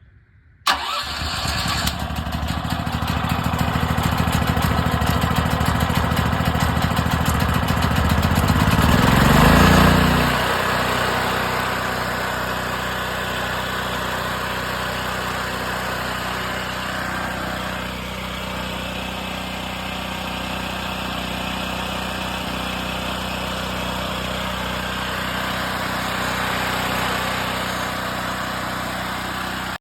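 Portable generator's small engine, newly fitted with a replacement carburetor and started on choke with its air filter in place, catches under a second in and keeps running. Its speed climbs and then drops back around ten seconds in, then it holds a steady run.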